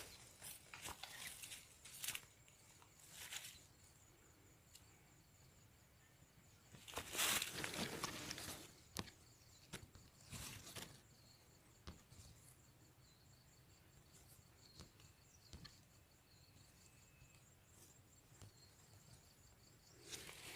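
Faint outdoor ambience: insects trilling steadily in a high, pulsing tone, broken by a few short rustles, the loudest about seven seconds in.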